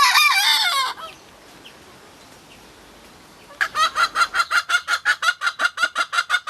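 Chickens: a short, wavering crow-like call in the first second, then, about three and a half seconds in, a fast, even run of short clucks, about six a second, that keeps going.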